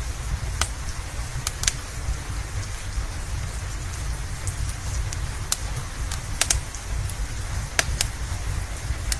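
Steady rain with a low rumble underneath, and the sharp pops of a crackling wood fire scattered through it, a few coming in quick pairs.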